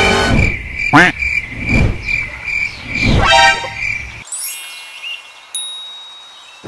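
Edited-in sound effects: a pulsing high beep runs under several swooshes for the first four seconds. A bell-like ding comes about five and a half seconds in and rings away.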